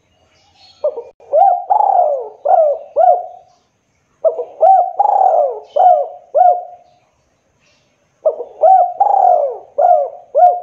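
Spotted dove (tekukur) cooing: three phrases of about five low, rolling coo notes each, repeated every few seconds.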